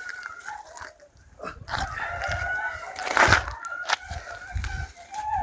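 A rooster crowing in drawn-out calls, with hens clucking, and a short loud knock about three seconds in.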